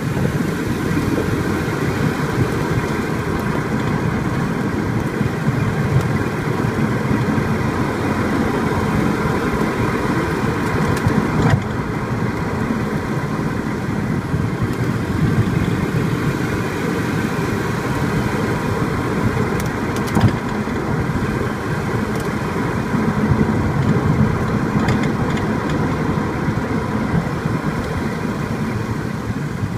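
Mazda Axela (BM5FS) on the move, with steady road and engine noise and a few short knocks from the front. The knocks come from a front brake caliper rattling loose because one of its upper mounting bolts is missing.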